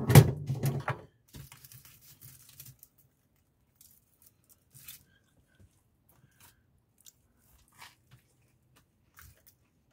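Someone biting into and chewing food close to the microphone. The loudest, crackly bite comes in the first second, followed by faint scattered chewing clicks.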